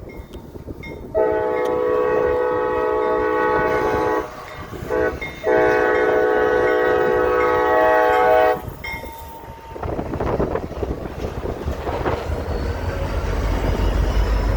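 Diesel freight locomotive's air horn sounding a long blast, a short one and another long blast, a grade-crossing signal. After it, the low rumble of the train rolling in grows louder.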